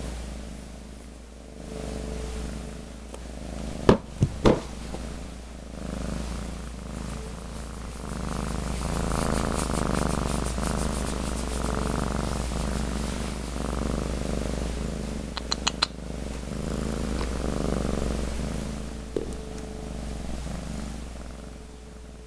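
Cat purring close up, the purr swelling and fading with each breath. Two sharp knocks about four seconds in, and a quick run of small clicks later on.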